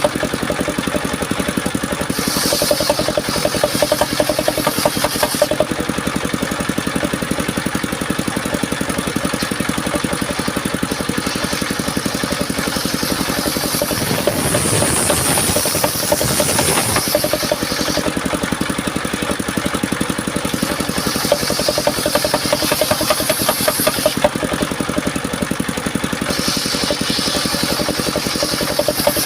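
Homemade engine-driven circular sawmill running steadily, the engine's fast firing beat throughout. Stretches of a higher hiss, a few seconds long, come about two seconds in, midway and near the end as the disc blade works through mahogany.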